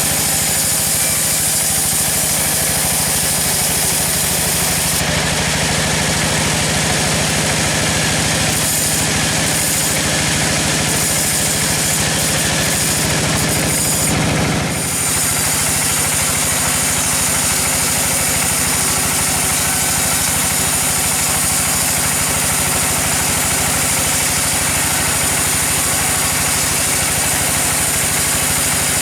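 Sawmill engine running steadily under a loud, even drone. Its tone shifts for about ten seconds in the first half and dips briefly before settling back.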